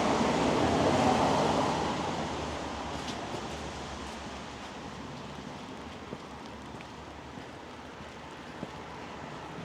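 A vehicle's tyres hissing on a wet road as it passes, fading out over the first two seconds. Then steady light rain ambience remains, with a few faint ticks.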